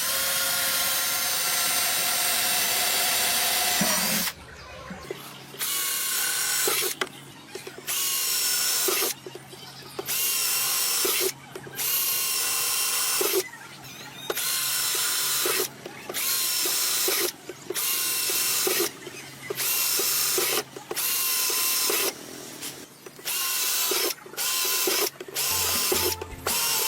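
Handheld electric power tool, drill-like, with a motor whine. It runs steadily for about four seconds, then is triggered on and off in about fourteen short bursts of roughly a second each.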